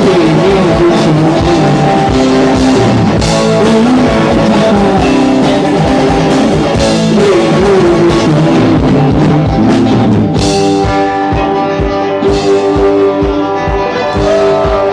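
Live rock band playing: guitars and drum kit, with a melody line gliding up and down in pitch. About ten seconds in, a loud crash and the band moves into steadier held chords over a regular drum beat.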